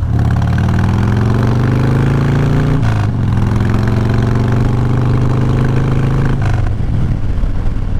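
Motorcycle engine accelerating, its pitch rising through the gears, with a gear change about three seconds in and another about six and a half seconds in.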